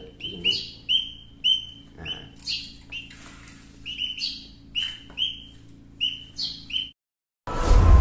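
Young caged munias and a sparrow chirping: short high chirps, two or three a second, some in quick pairs. Near the end they cut off and loud music begins after a brief silence.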